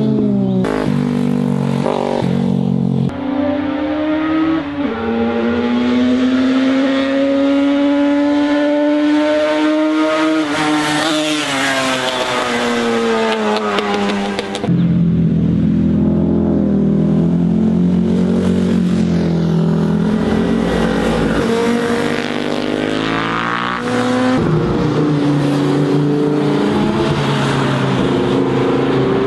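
High-revving vehicle engines, the note rising through long pulls and falling off again, in several cut-together stretches.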